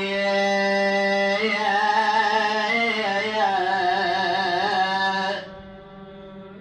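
A man's voice chanting a long, drawn-out wavering note in a mournful Arabic nai elegy, unbroken by words. About five seconds in the voice falls away sharply to a faint held tone.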